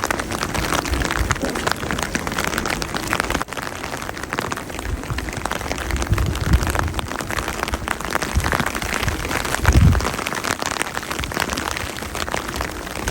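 Steady rain falling, with many drops pattering on a surface. A few low rumbles come through it, the strongest about ten seconds in.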